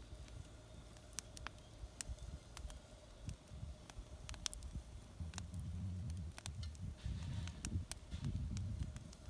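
Wood fire crackling in a small homemade fire pit: irregular sharp pops and snaps over a low rumble that grows stronger about five seconds in.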